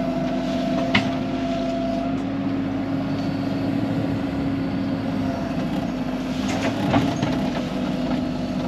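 Excavator's diesel engine running steadily, with two sharp knocks, about a second in and near the end, as the bucket scrapes mud off a hard mudstone rock base.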